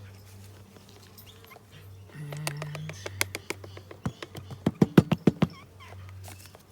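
Honeybees buzzing steadily at the hive while sugar syrup is poured into a feeder. A quick run of sharp clicks and knocks comes from the handling, fastest and loudest about five seconds in.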